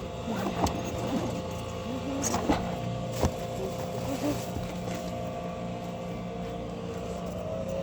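Vehicle engine running with a steady hum, with a few sharp knocks about a second, two and a half and three seconds in.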